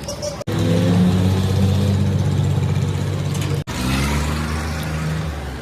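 Car engine running, its sound breaking off sharply twice; after the second break the engine note rises as it accelerates.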